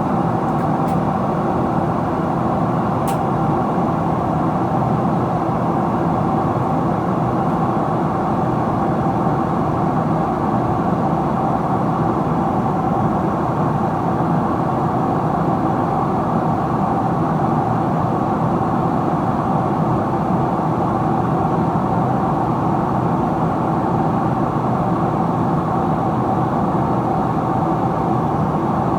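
Steady cabin roar inside a Boeing 777-300ER in descent: rushing airflow and its GE90-115B engines, with a steady mid-pitched hum through it.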